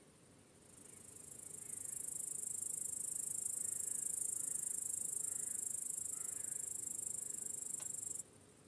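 A very high-pitched insect trill, a fast even buzz, swells in over about a second, holds steady, then cuts off abruptly near the end, over a faint low background hiss.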